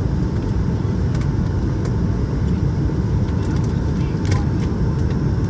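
Steady low rumble of cabin noise inside a Boeing 757-200 with Pratt & Whitney PW2000 engines, with a faint steady tone and a few faint clicks.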